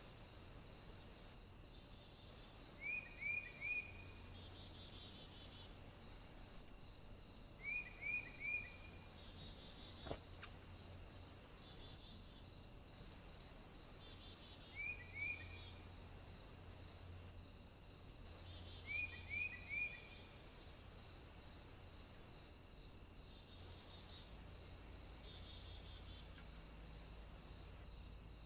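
A bird calling in short groups of two or three quick chirps, repeated every four to seven seconds, over a steady high-pitched hiss.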